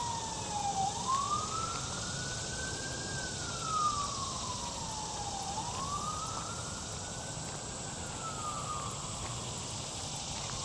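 Emergency vehicle siren on a slow wail: the tone climbs quickly, then sinks slowly, repeating about every four and a half seconds.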